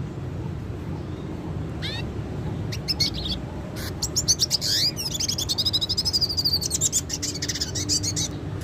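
Red siskin singing: a couple of chirps about two seconds in, then a run of twittering song phrases with fast high trills through the second half, over a steady low hum.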